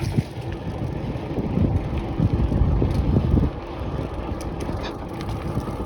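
Wind buffeting the microphone with tyre and road rumble from a bicycle on the move, heaviest for the first three and a half seconds and then easing slightly.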